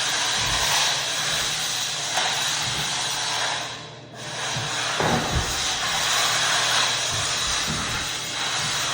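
Floor buffer running over an oak floor while buffing in hard wax oil: a steady hissing whir from the motor and pad. It dips briefly about four seconds in, then comes back up.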